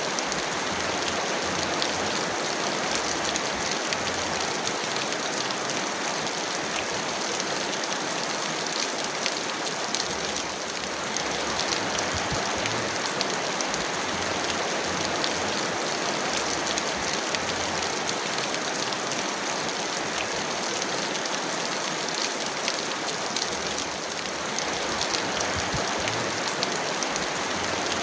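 Heavy rain falling steadily, a dense hiss with many individual drops ticking through it.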